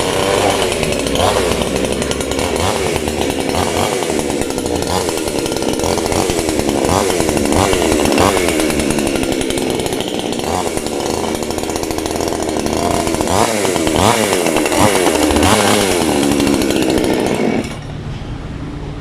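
Two-stroke gasoline chainsaw with a 22-inch bar running, its engine revved up and down again and again. The engine sound drops away sharply near the end.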